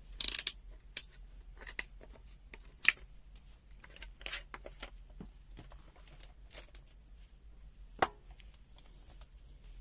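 Handling sounds from a multimeter and its test leads being set up: scattered small clicks and rustles, with a sharp click about three seconds in and another near eight seconds.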